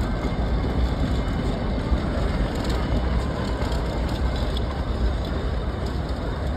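Blue passenger coaches of the Nilgiri Mountain Railway rolling slowly past on the metre-gauge track: a steady low rumble with a few faint clicks from the wheels and couplings.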